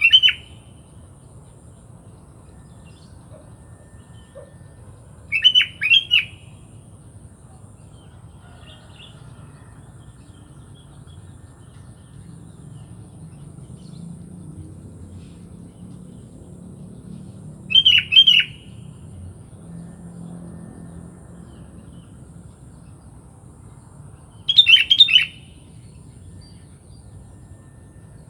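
Sooty-headed bulbul (kutilang) giving four short call phrases spaced several seconds apart, over a faint low background hum.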